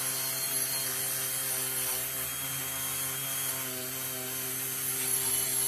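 Dremel rotary tool running at a steady speed, a constant high hum with a light grinding hiss, as it cleans up the die-cast metal body.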